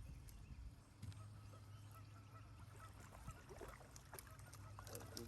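Faint honking of geese, a few short calls in the second half, over a low steady hum.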